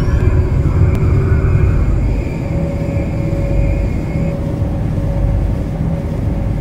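MTR Kwun Tong line C-Train metro train running, a steady low rumble with thin electric whines from the traction equipment; the highest whine stops about four seconds in.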